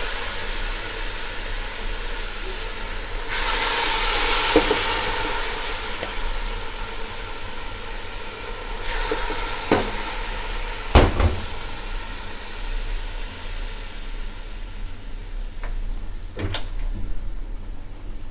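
Hot chicken masala sizzling and hissing as it goes into the pot, dying away toward the end, with a few sharp knocks of a spoon against the pot.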